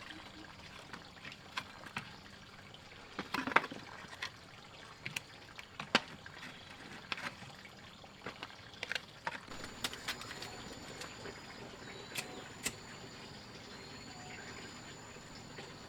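Water trickling, with irregular sharp clicks and knocks. About halfway through, a thin steady high tone joins in.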